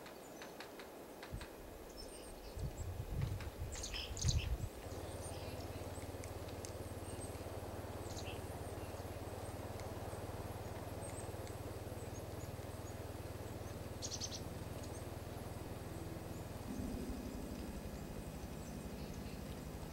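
Small birds giving a few short, high chirps, in two clusters about four seconds in and again around fourteen seconds. Beneath them a steady low hum sets in about five seconds in, after a few low thumps.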